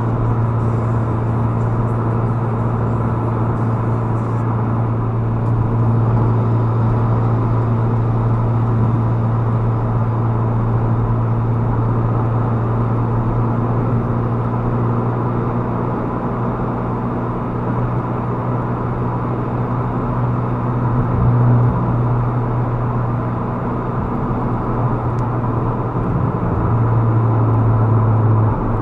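Motor vehicle driving: a steady low drone of engine and road noise.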